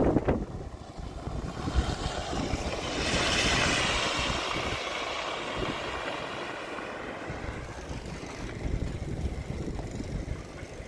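Wind buffeting the microphone, with a vehicle passing by that swells to a hiss about three seconds in and then fades.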